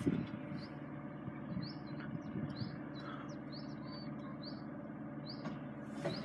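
A small bird repeating short high chirps, about two a second, over a steady low hum.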